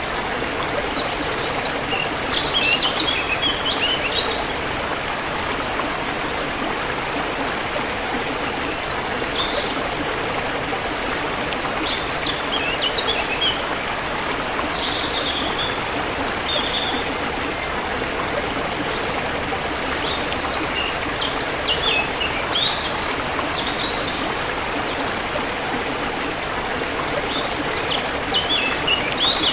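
Steady rush of a forest stream flowing, with short bursts of bird chirping every few seconds.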